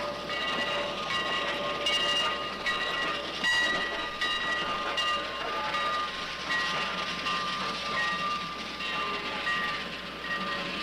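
Train wheels squealing on the rails: several high metallic tones that come and go, with a few sharp clicks.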